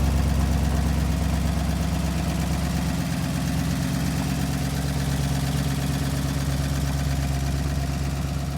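Old Ford car's engine idling steadily with a low, even running note.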